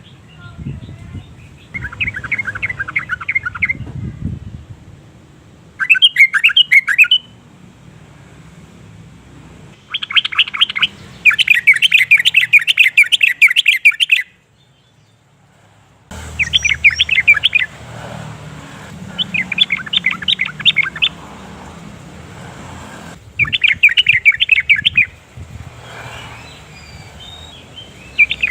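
Yellow-vented bulbul singing: repeated bursts of quick chattering notes, each a second or two long, with one longer run of about four seconds in the middle. The bursts are broken by a brief silent gap.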